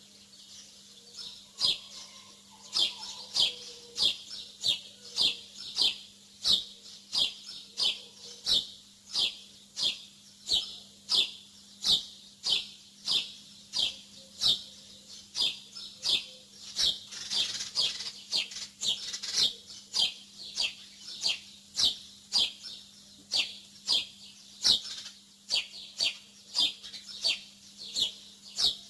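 Small songbirds chirping: a steady run of short, high, downward-sliding chirps at about two a second, briefly busier about two-thirds of the way through. A faint steady low hum lies underneath.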